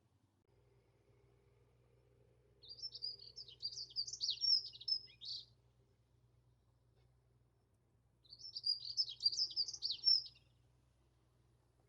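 A dunnock sings two phrases of its quick, high-pitched warbling song, each about three seconds long. The first starts about three seconds in and the second about eight seconds in.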